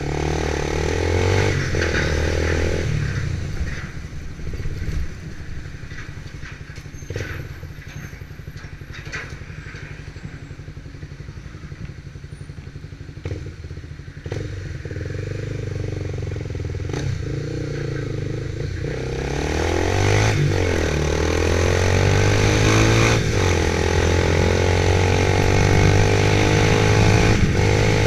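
Motorcycle engine running: louder for the first few seconds, dropping to a quieter run, then growing louder again for the last third.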